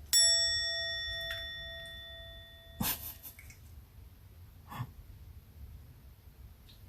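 A single bright bell-like ding that rings with several overtones and dies away over about three seconds. A short knock follows near the three-second mark, and a softer one near five seconds.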